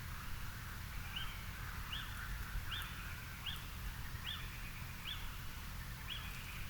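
A garden bird calling one short, sharp note over and over, seven times at about one every three-quarters of a second, over a steady low background rumble.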